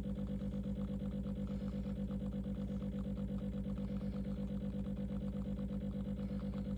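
De'Longhi Specialista Prestigio espresso machine's pump running while it brews a coffee: a steady buzzing hum with a fast, even pulse.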